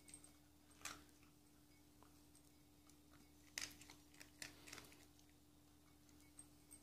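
Faint, scattered crunches of a dog chewing dry kibble: one near the start and a small cluster in the middle, over a faint steady hum.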